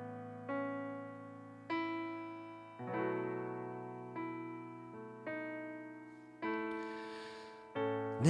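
Piano keyboard playing slow worship chords, a new chord struck about once a second and each left to fade.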